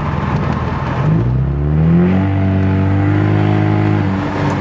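Car engine revving up: the pitch climbs about a second in, holds high for about two seconds, then drops back near the end. It is an unintended rev from the driver's foot slipping on the accelerator.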